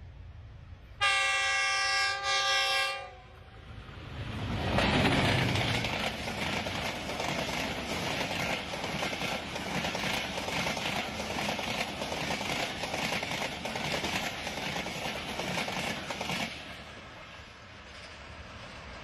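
Jafar Express passing at speed on Pakistan Railways. The locomotive sounds its multi-tone horn for about two seconds, then the rumble and wheel clatter of the train build quickly and run on steadily as the coaches rush past, dropping away abruptly about sixteen seconds in.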